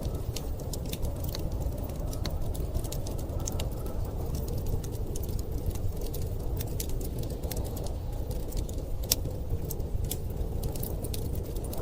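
Wood fire crackling with scattered sharp pops, over a steady low rumble of blizzard wind.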